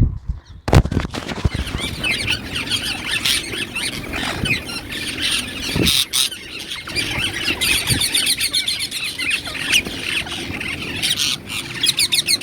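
A large flock of Indian ringneck (rose-ringed) parakeets squawking and screeching together while feeding: a dense, continuous chatter of many overlapping shrill calls that starts abruptly a little under a second in.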